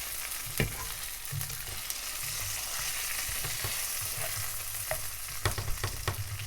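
Chicken breast and green beans sizzling in butter in a frying pan, stirred around with a few knocks against the pan: one about half a second in and a quick cluster near the end.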